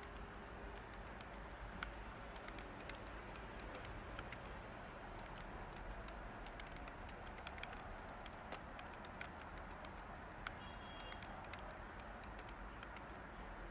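Light, irregular keystrokes on a computer keyboard over a steady hiss of white noise.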